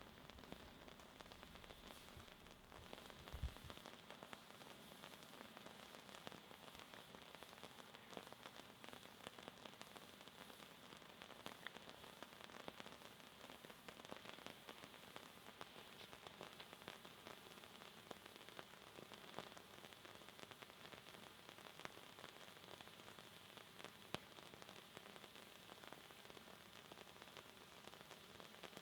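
Stucki AG pyrotechnic waterfall firework burning: a faint, steady sputtering hiss with fine crackling throughout, and a single low thump about three seconds in.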